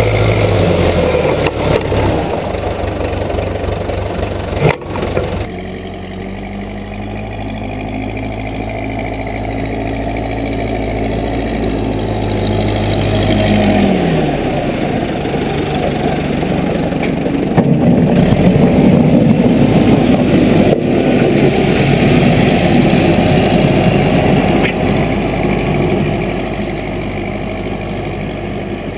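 Case 580B backhoe engine running, its revs falling near the start and again about halfway through, with a sharp knock about five seconds in and a louder, rougher stretch in the second half.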